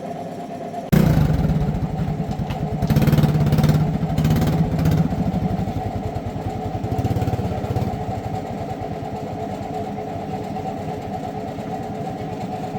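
Restored motorcycle engine starting suddenly about a second in, revved up briefly a couple of times, then settling into a steady idle.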